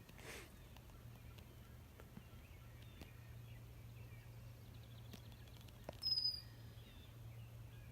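Quiet outdoor ambience with faint scattered bird calls, and one short, high, clear bird chirp about six seconds in.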